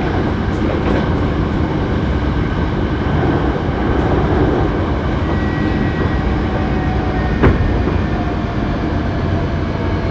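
Running sound heard from inside a Hankyu 7300 series train car, a car known for its unusual running noise, cruising at speed: a steady rumble of wheels on rail with a faint steady whine, and one sharp clack about seven and a half seconds in.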